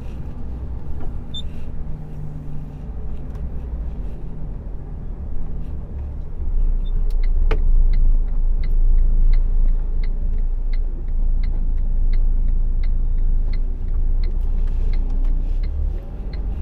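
Loaded Iveco truck's diesel engine running, heard from inside the cab. Its low rumble grows louder about six and a half seconds in as the engine pulls harder. A regular ticking, about two to three ticks a second, runs through most of the second half.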